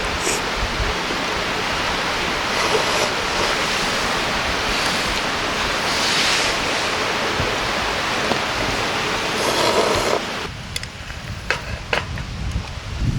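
Steady rush of flowing river water. About ten seconds in it cuts off suddenly to a quieter background with a few sharp clicks.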